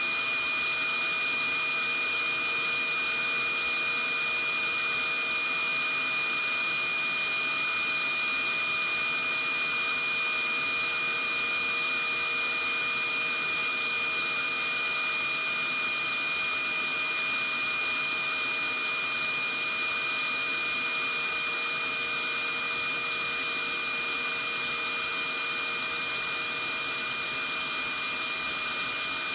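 Vacuum cleaner running steadily: a constant rushing hiss with a high, steady motor whine on top.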